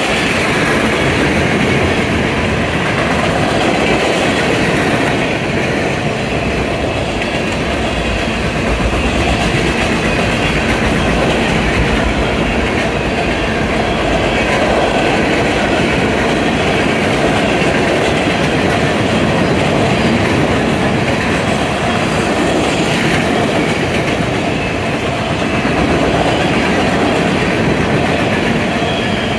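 A train's cars rolling past, with a steady clatter of wheels over the rail joints.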